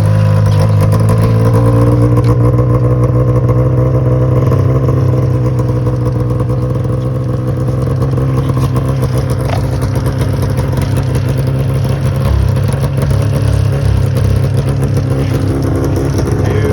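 Arctic Cat Cougar 550 snowmobile's two-stroke engine running at a steady speed, holding a nearly constant pitch, through its stock muffler box.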